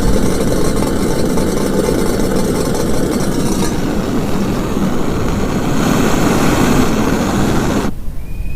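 Heavy rain falling hard, a loud, dense, steady rumbling noise. The sound drops abruptly to a quieter level near the end.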